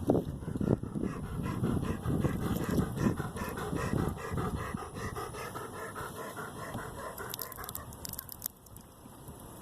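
A dog panting in quick, even breaths, quieter near the end.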